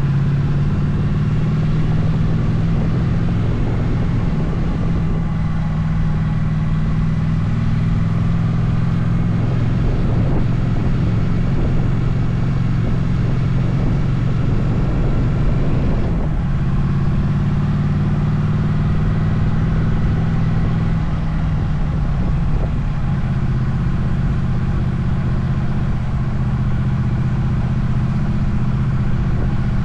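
Motorcycle engine running steadily on the move, with a rush of wind and road noise. For about ten seconds in the middle the engine note drops back under the rushing noise, then comes up again.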